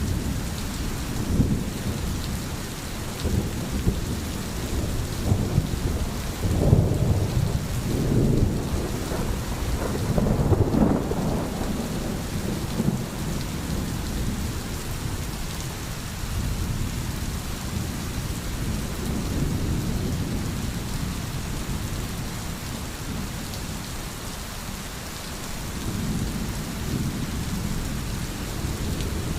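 Steady rain with low, rolling thunder rumbling underneath, the heaviest rumbles from about six to eleven seconds in.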